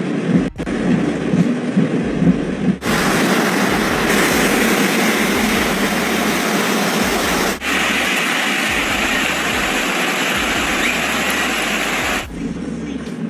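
Loud, steady rushing hiss of heavy rain and floodwater. It cuts in abruptly about three seconds in after a lower rumble, breaks off briefly near the middle, and stops suddenly near the end.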